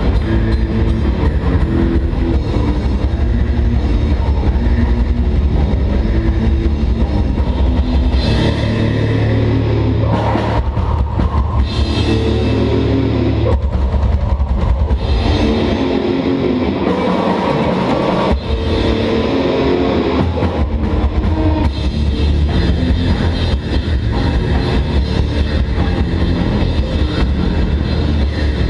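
Heavy metal band playing live: loud distorted guitars, bass and drums, with the heavy low end and the texture shifting about a third of the way in and thinning for a few seconds past the middle before the full band comes back.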